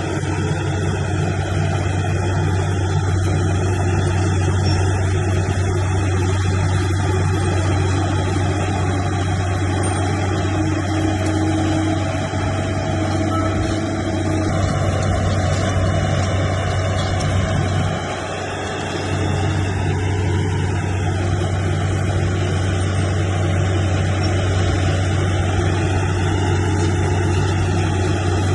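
Bulldozer's diesel engine running steadily under load, a deep drone that briefly drops in level about two-thirds through before picking back up.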